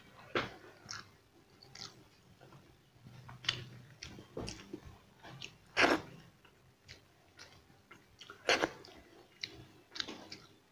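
Close-up mouth sounds of a person chewing rice and curry eaten by hand: irregular wet smacks and clicks, the loudest about six seconds in and again at about eight and a half.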